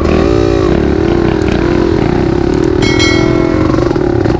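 Dirt bike engine running at a steady pitch on the trail. The revs dip and pick up again about half a second in, with a few light clicks partway through.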